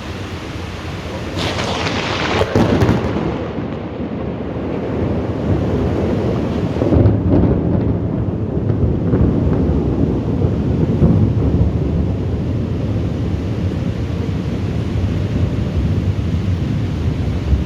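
Thunder during a rainstorm: a sharp crack about two seconds in, followed by a long, low rolling rumble over the steady hiss of rain.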